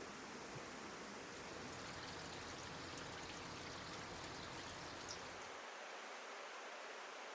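Meat sizzling on a grill over a wood fire, a faint steady hiss with fine crackles.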